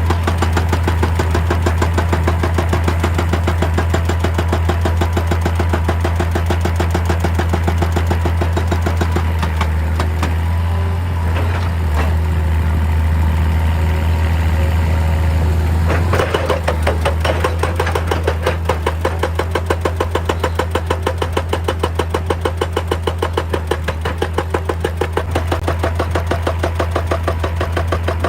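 Excavator's diesel engine running steadily with a deep hum and a fast, even pulsing that grows more pronounced about halfway through.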